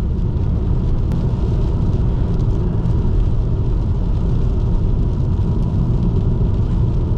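Car driving along a road: a steady low rumble of tyres and engine that holds level throughout.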